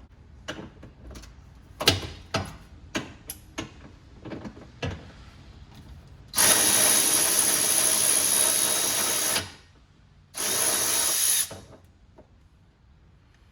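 A few clicks and knocks of tool handling, then a power drill spinning out a 10 mm bolt: a steady run for about three seconds, a short pause, and a second run of about a second.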